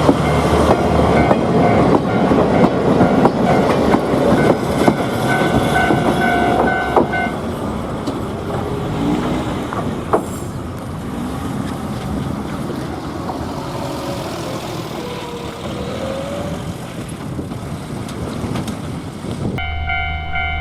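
A train running past a railway level crossing, its wheels clattering over the rails, loudest in the first seven seconds, with a ringing tone a few seconds in. About a second before the end the sound cuts abruptly to a steady low hum with a ringing tone.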